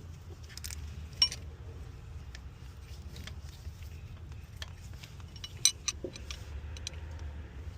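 Scattered light metallic clicks and clinks of a wrench and hand tools working against engine parts, over a low steady hum.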